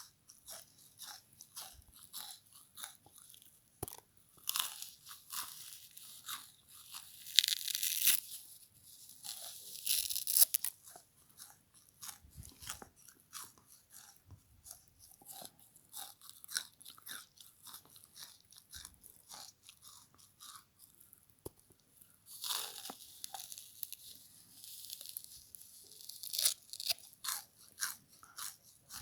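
Close-up crunchy chewing and biting of a frozen bath sponge scrubber: a continuous run of crackles and crunches, with louder, denser bouts of crunching about five to ten seconds in and again about three quarters of the way through.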